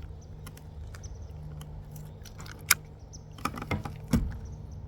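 Small fish and lure being handled by hand: scattered sharp clicks and light knocks, one loud click about two and a half seconds in and a cluster of knocks near the end, over a steady low hum.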